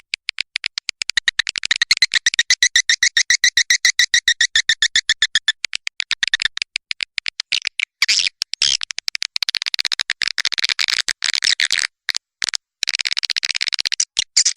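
Recorded swiftlet calls played as a lure for nesting swiftlets: a fast, buzzy trill of rapid clicking chirps. About eight seconds in it breaks into a broader, scratchier twittering with short pauses.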